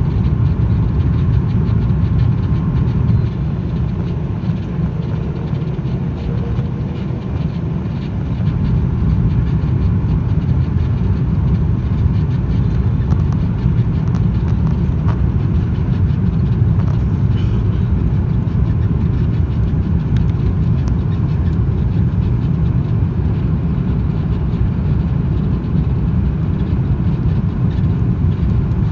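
Steady low rumble of an Airbus A330 airliner, its engines and airflow running without letup, dipping slightly in level a few seconds in before settling again.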